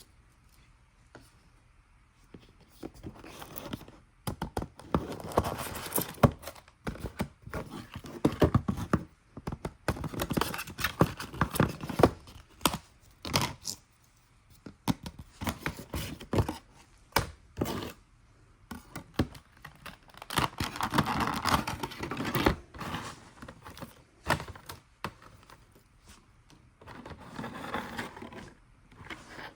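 Model box and packaging being opened by hand: tearing, crinkling and scraping with scattered knocks, in bursts separated by short pauses.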